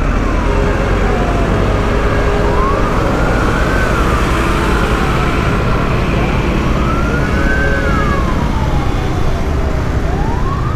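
Fire engine siren wailing in slow sweeps, rising and falling about every four seconds. Under it runs a steady low rumble of road traffic and engine.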